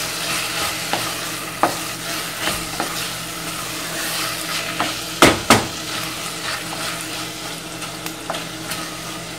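Chopped tomatoes frying in a stainless steel pot with a subdued sizzle while a wooden spoon stirs, scraping and clicking against the pot. The cold, watery tomatoes have cooled the pan and quietened the frying. Two louder knocks of the spoon on the pot come a little over five seconds in.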